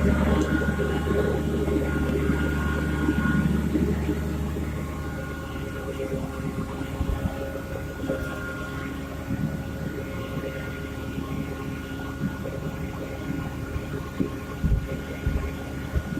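Harvest machinery running steadily with a constant engine hum. It is louder for the first few seconds, then settles a little quieter, with a few brief low thumps.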